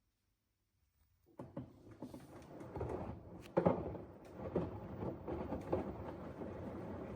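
LG front-loading washing machine starting to tumble its wash after a pause: water sloshing and laundry dropping in the drum with irregular thumps, starting a little over a second in.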